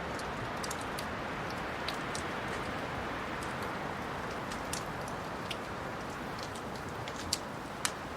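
Wood fire in a fireplace crackling: a steady soft rush of flame with scattered small pops and snaps, and a couple of sharper pops near the end.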